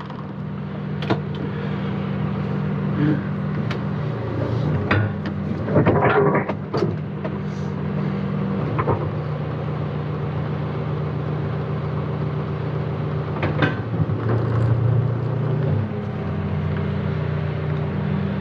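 John Deere 310K backhoe loader's diesel engine running steadily, its note shifting a few times as the machine works. Scattered sharp knocks and clanks sound over it, with a busy cluster about six seconds in and another near the end.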